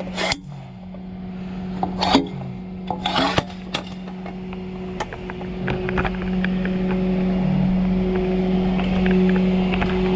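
Steady hum of a running tow truck, which grows louder about six seconds in. In the first few seconds come three short scraping rasps of metal or wood being dragged.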